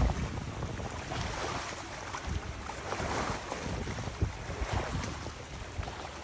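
Wind gusting over the microphone: uneven low buffeting with a rushing hiss that swells and fades.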